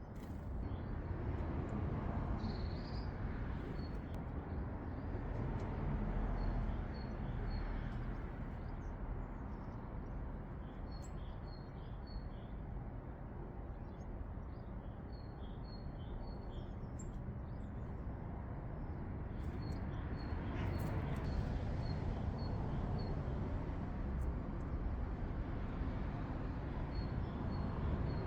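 Small garden birds calling in runs of short, high, quickly repeated notes, over a steady low background rumble.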